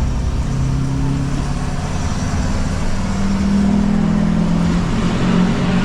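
Diesel truck engine pulling a load of brick, accelerating: its note steps up in pitch about halfway through and holds higher.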